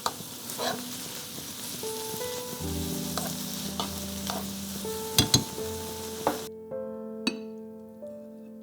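Food sizzling in a hot frying pan as it is stirred, with a utensil knocking and scraping against the pan several times, two loud knocks close together about five seconds in. Background music comes in about two seconds in, and the sizzling cuts off suddenly a little over six seconds in, leaving the music.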